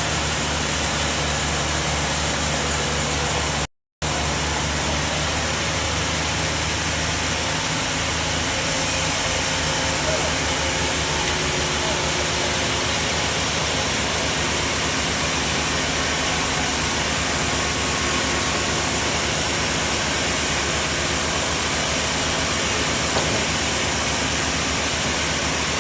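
Sawmill bandsaw running through a large trembesi (rain tree) log: a steady, loud mechanical noise with a low motor hum underneath. The sound breaks off for a moment about four seconds in.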